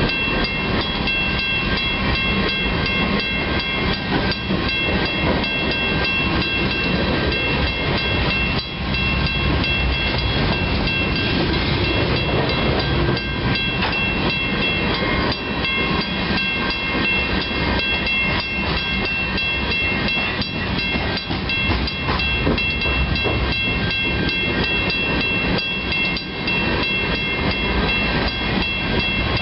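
Freight train of grain hopper cars rolling past at a steady pace: a continuous rumble and rattle of wheels on rail, with a steady high-pitched squeal over it.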